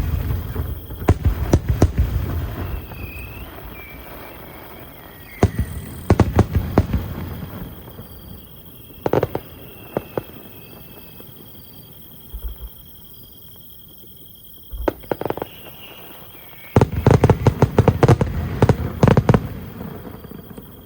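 Aerial fireworks shells bursting in clusters of sharp crackling bangs with deep booming tails, separated by short lulls. The densest rapid volley comes near the end.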